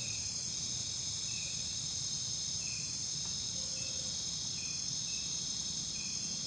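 Night chorus of crickets and other insects: a steady, high-pitched, many-layered trilling, with short chirps about once a second.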